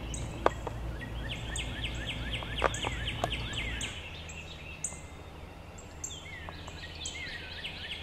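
Birds calling: a fast run of quick down-slurred chirps lasting a couple of seconds, with other short slurred calls around it. A few sharp knocks and a low rumble that drops away about halfway sit under them.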